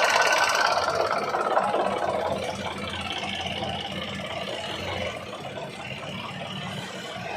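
Tractor engine running steadily at a low speed, growing gradually fainter.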